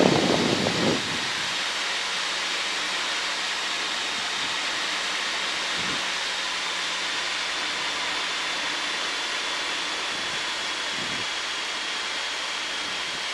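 Steady cockpit noise of a Cessna 152 on final approach: its Lycoming four-cylinder engine at reduced power and the airflow over the airframe making an even wash of noise, with a brief louder rumble in the first second.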